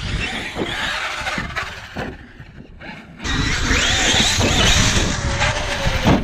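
Brushless electric RC monster truck driving hard, its motor and drivetrain whining up and down in pitch with the throttle. It eases off briefly, then comes back louder from about three seconds in with a low rumble under the whine.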